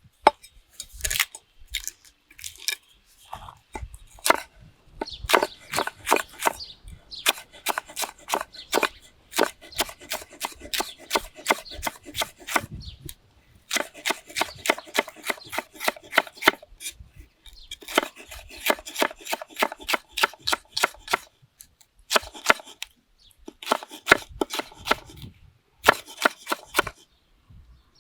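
Knife chopping food on a cutting board: quick runs of sharp, even strokes broken by short pauses.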